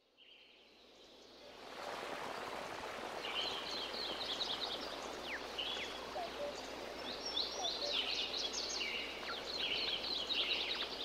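Jungle ambience: a steady background hiss that fades in over the first two seconds, with many birds calling in quick high chirping trills from about three seconds in.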